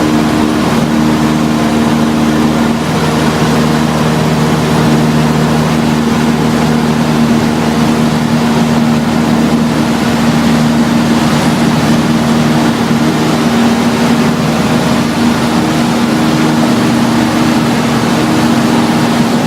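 Cessna 152's four-cylinder air-cooled engine and propeller running steadily at take-off power, a loud constant drone with no change in pitch.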